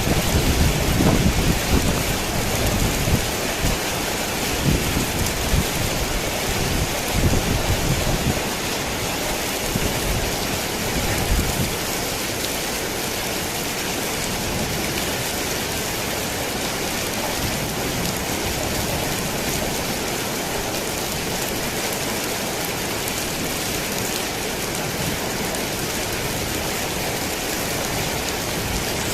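Steady rain drumming on a tin roof, with low thunder rumbling in rolling surges for roughly the first dozen seconds before it dies away, leaving only the even hiss of the rain.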